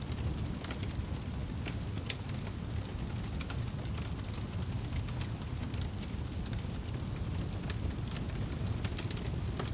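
Wood fire crackling in a fireplace: a steady low rumble of burning logs with scattered sharp pops and snaps, the sharpest about two seconds in.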